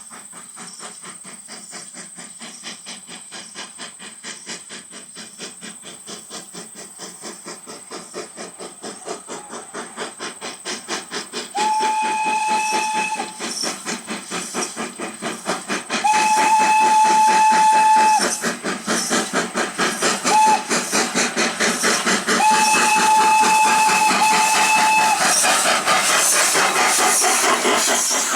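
H.K. Porter 0-6-0T tank steam locomotive working hard, its exhaust chuffing in a rapid, even beat that grows steadily louder. About halfway through, its steam whistle sounds long, long, short, long: the grade-crossing signal.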